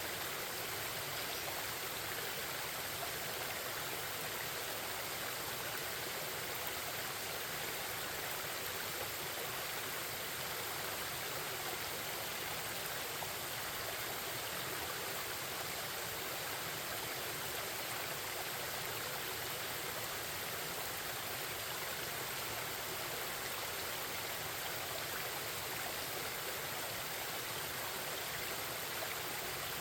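Forest stream with babbling water flowing steadily, an even rushing hiss that does not change.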